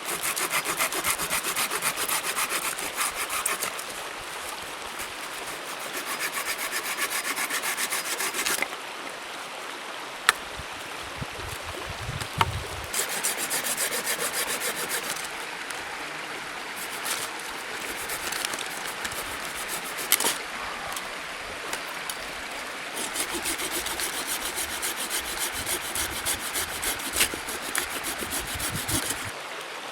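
Hand saw cutting wood in several bouts of quick back-and-forth strokes, with short pauses between the bouts.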